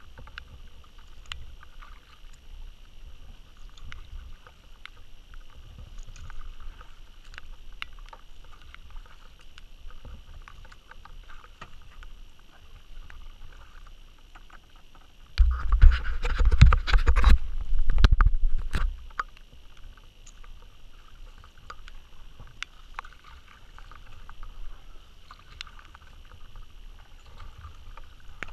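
Kayak paddle strokes in river water, repeating every second or two with small drips and knocks. About halfway through comes a loud rushing burst lasting about three seconds.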